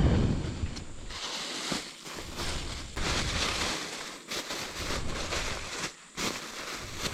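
A low thump, then rustling noise that comes and goes in uneven stretches of about a second each.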